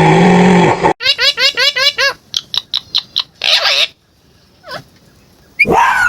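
Animal calls: a loud pitched call, then a rapid run of rising chirps, about seven a second, and a string of falling whistles. After a near-quiet gap, another loud call begins near the end.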